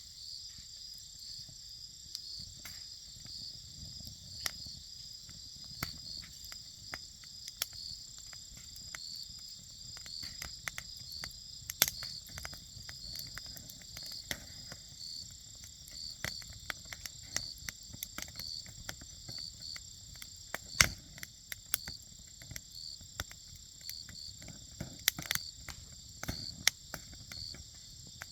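Wood fire crackling with irregular sharp pops, a few of them much louder, over a low rumble. Insects chirp steadily in a high-pitched, regular pulse throughout.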